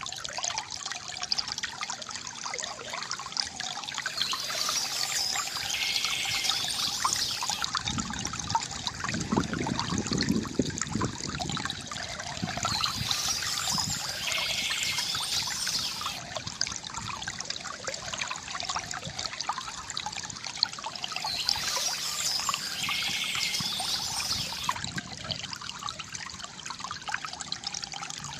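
Shallow stream trickling and splashing over stones, with bird song breaking in three times at even intervals.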